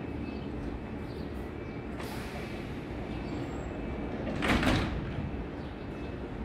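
Steady low rumble of an Intercity train standing at a station platform, with one short loud burst of noise about four and a half seconds in.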